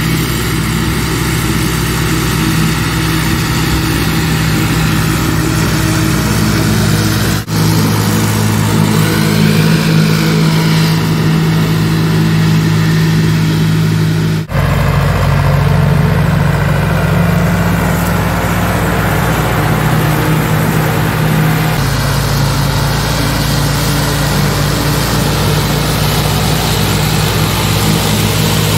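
Ursus tractor diesel engine running steadily at a constant speed. The sound breaks off sharply for a moment twice, about 7 and 14 seconds in, and the engine note shifts slightly after each break and again after about 21 seconds.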